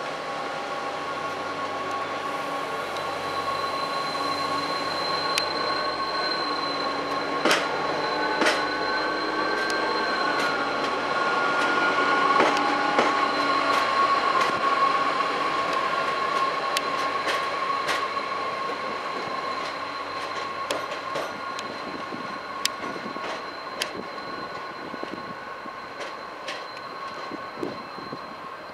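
AGC railcar rolling slowly past, its wheels squealing with several steady high-pitched tones and clicking over rail joints and points. The sound swells as it passes and then fades.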